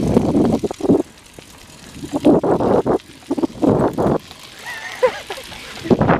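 Bicycles being ridden, with wind and rolling noise coming in uneven gusts and brief snatches of voices.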